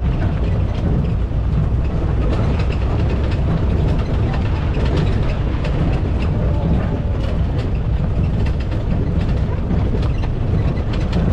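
Safari jeep driving over a rough dirt track: a steady engine and road rumble with many rattles and knocks from the bouncing vehicle.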